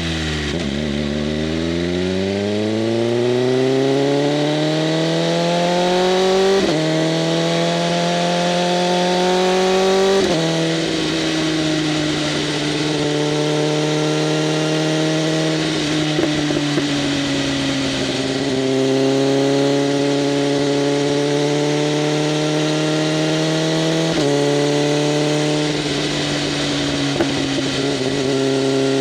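BMW M1000RR's inline-four engine through an open SC-Project CRT exhaust, pulling hard with the pitch climbing and then dropping sharply at two upshifts in the first ten seconds. It then holds a roughly steady pitch, with a couple of shorter steps in pitch later on, over steady wind rush.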